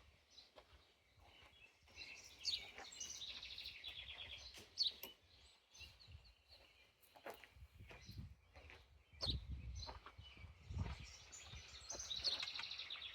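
Small birds chirping and trilling in quick runs, with scattered light clicks and knocks of hand tools and metal parts being handled on a small engine.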